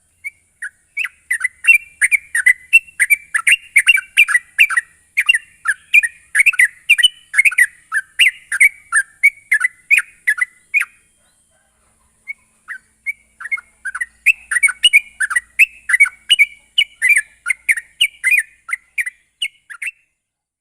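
Yellow-vented bulbul (trucuk) singing a fast run of short chirping notes, about two or three a second, with a brief pause a little past halfway. It is a lure song of the kind played to set caged trucuk singing.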